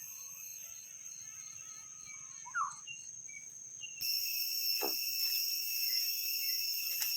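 Steady, high-pitched insect chorus of trilling crickets or cicadas, with a pulsing ticking call in the first half and a few short bird calls. About four seconds in the chorus suddenly grows louder, and a quick falling whistle-like call follows.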